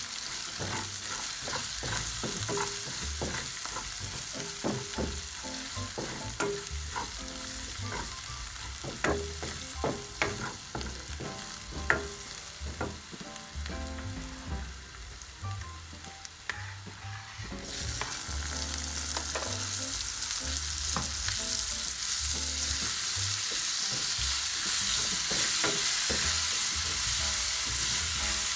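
Onions frying in oil in a non-stick wok, stirred with a wooden spoon that knocks and scrapes against the pan. The sizzling jumps louder about two-thirds of the way through and stays loud.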